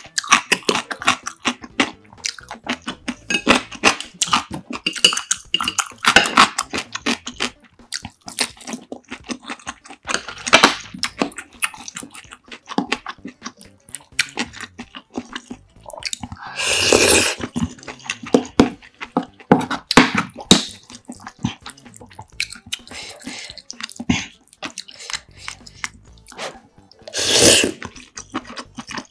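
Close-miked chewing and wet mouth clicks of a person eating rice and Korean side dishes. Two louder slurps, about 17 seconds in and near the end, the last as a strand of food is drawn into the mouth.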